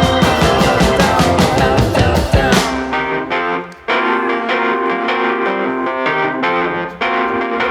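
Rock band playing live and instrumental, with drums, electric guitar and keyboard. The drums stop about two and a half seconds in and the guitar and keyboard carry on alone, with a brief break a little after three and a half seconds.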